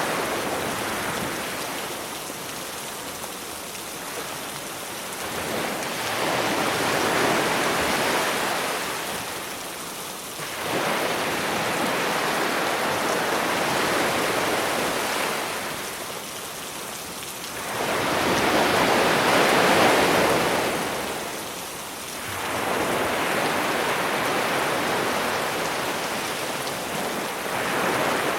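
Sea waves washing onto the shore in slow swells, one every four to six seconds, the strongest a little past the middle, over a steady hiss of rain.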